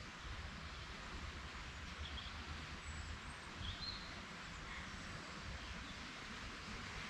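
Countryside ambience: a steady rushing hiss over a low rumble, with a few brief high bird chirps, about two seconds in, near four seconds and again a second later.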